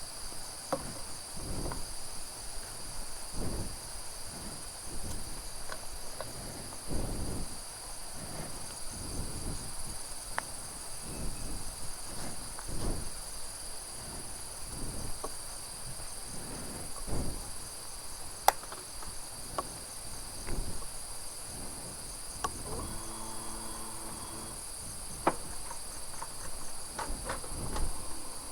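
Steady high-pitched chirring of insects, with soft low thumps now and then and a brief low hum near the end.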